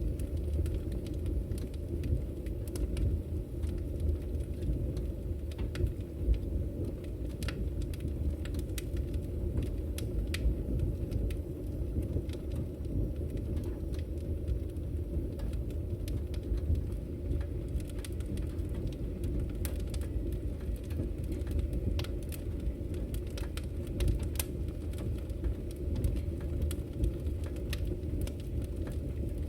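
Firewood burning in a fireplace: a steady low rumble of the flames with scattered sharp crackles and pops from the wood.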